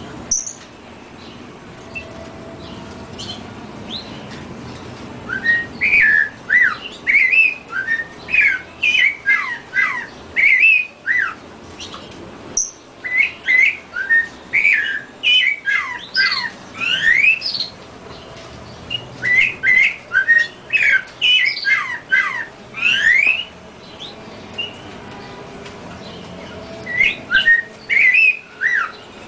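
A bird singing in phrases of quick, sharp whistled notes that swoop up and down, several notes a second. Each phrase lasts a few seconds, with short pauses in between.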